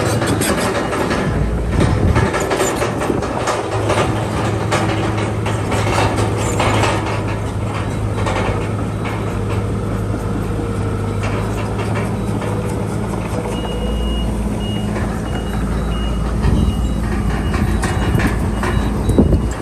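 Diesel bulldozer engine running under load, its steel crawler tracks clanking continuously. From about two-thirds of the way in, a reversing alarm beeps steadily.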